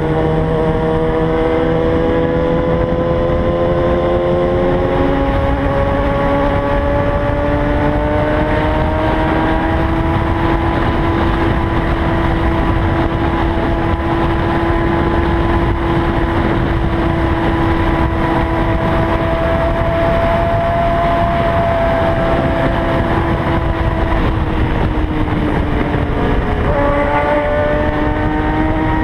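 Kawasaki ZX-6R inline-four engine pulling at a steady highway cruise under heavy wind noise on the microphone. The engine note climbs slowly at first, holds, then drops and rises again near the end.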